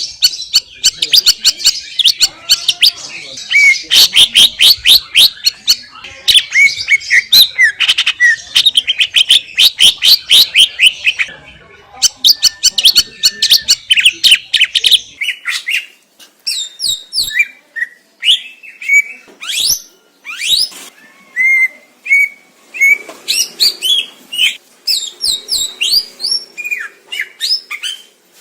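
Green leafbird (cucak ijo) singing: a fast chattering run of rapid sweeping notes for about the first fifteen seconds, then slower, spaced-out whistled notes and sweeps.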